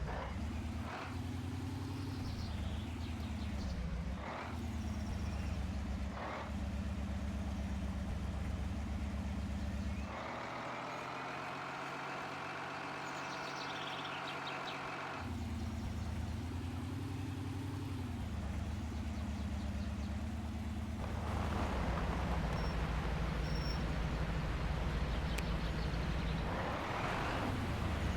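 Heavy truck engine running under load, its pitch dipping and climbing again several times in the first ten seconds. For about five seconds in the middle the deep engine sound gives way to a higher-pitched whine. The engine then comes back, joined by louder rushing noise in the last several seconds.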